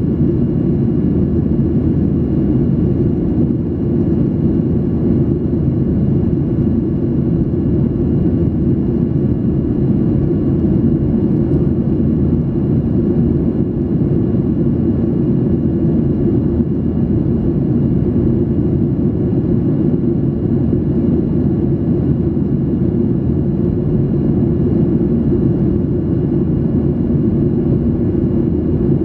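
Steady low cabin roar inside a Boeing 737-800 in flight, the mix of jet engine and airflow noise, with a few faint steady high whining tones above it.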